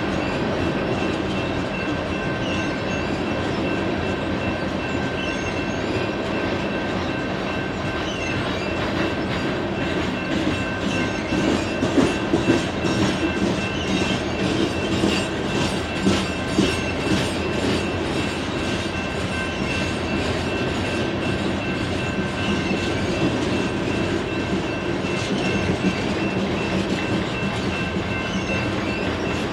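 BNSF coal train rolling past, its steel wheels clicking over rail joints in clusters near the middle over a steady rumble of cars, with two faint steady high tones above.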